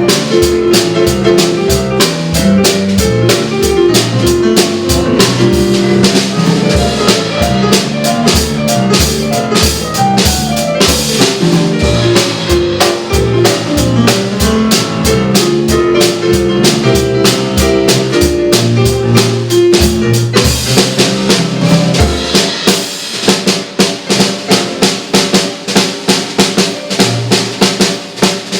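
Instrumental break by a trio of keyboard, saxophone and drum kit, with held melody notes and a pulsing bass line over the drums. About three quarters of the way through, the bass and melody drop out and the drum kit carries on alone.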